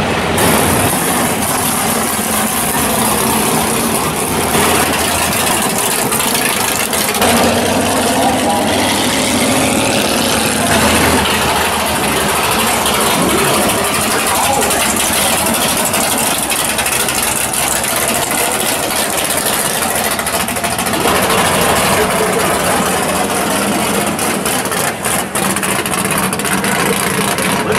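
Loud drag-race car engines idling and running as the cars roll slowly through the pits, the sound changing a few times as one car gives way to the next.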